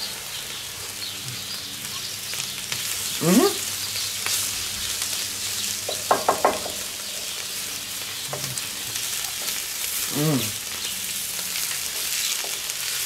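Shredded white cabbage and carrots sizzling steadily in a cast-iron skillet on a gas grill's side burner, stirred and scraped with a wooden spatula. A few short hums break in about three, six and ten seconds in.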